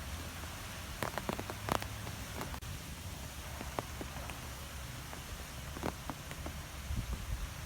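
Wind blowing through trees: a steady rush with scattered light ticks and a low rumble of wind on the microphone.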